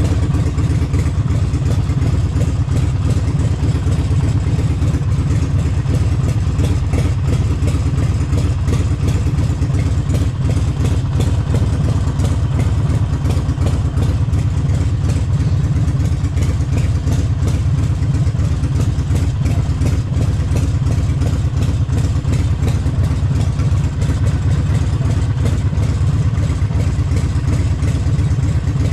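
Harley-Davidson Forty-Eight Sportster 1200's air-cooled V-twin running steadily at an even speed, its low, pulsing engine note holding without revving up or down.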